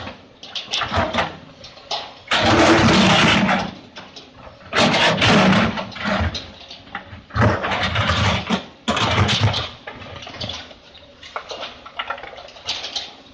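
Doosan DX 200 A excavator at work: engine running, with four loud, noisy bursts about a second long each.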